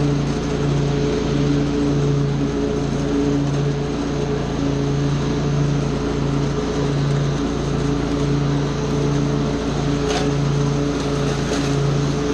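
Small gasoline engine of lawn equipment running steadily at a constant speed, its hum pulsing slowly and evenly. Two faint ticks near the end.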